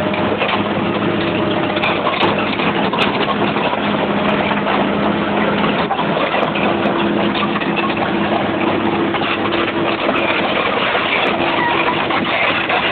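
Heavy tow truck's engine running steadily under a dense wash of mechanical noise, with a low engine tone that fades out around the middle and a higher one that comes in after.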